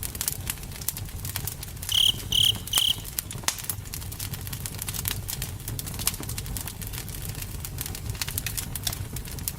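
Campfire burning with a steady low rumble and frequent sharp crackles and pops. About two seconds in, three short high chirps from an animal (a cricket or a bird) come in quick succession.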